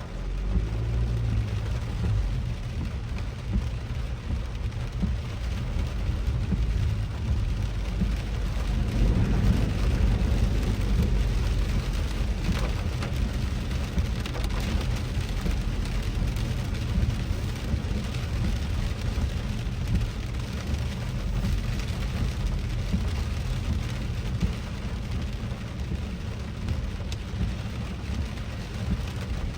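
Rain pattering on a car's roof and windshield, heard from inside the cabin over the steady low rumble of the car driving on wet road.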